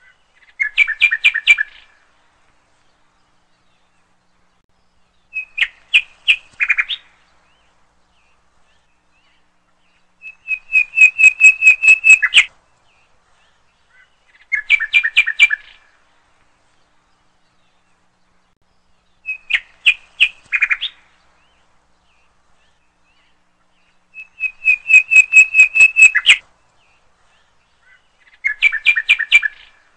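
Bird song: short phrases of quick, repeated chirping notes, each lasting about two seconds and coming every four to five seconds, with silence between them.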